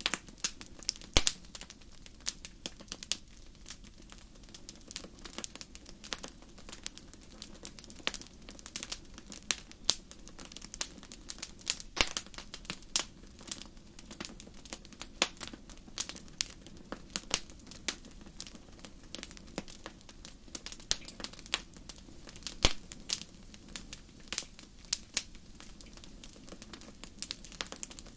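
Fire crackling: dense, irregular pops and snaps over a low steady rumble.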